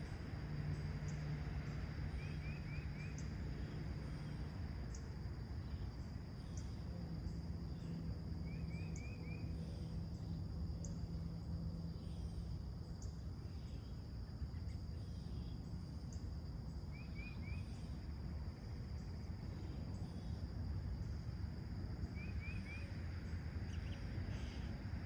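Summer morning outdoor ambience: a steady low rumble of distant traffic under a constant high insect drone. A bird gives a short, quick call of three or four notes four times, several seconds apart.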